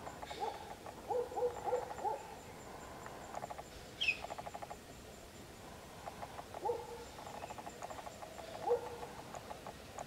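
Low hooting bird calls, several in a cluster at the start and more later, with rapid pulsing trills in between and one short high squeak about four seconds in.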